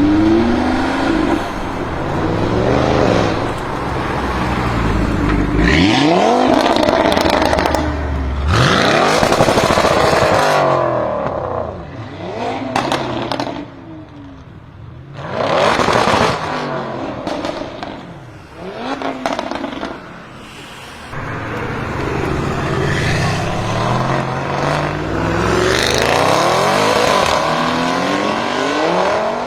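Audi RS3 Sportback with an Armytrix aftermarket exhaust, driven hard several times: the engine note climbs through the revs and then falls away as the car goes by. Loud bursts come about six, nine, sixteen and twenty-six seconds in.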